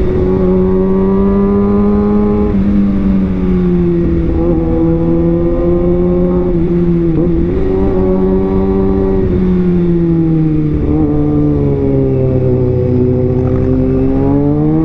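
Kawasaki ZX-6R's inline-four engine running under way at moderate, fairly steady revs, its pitch easing down and climbing back a few times without hard revving. Near the end the revs climb.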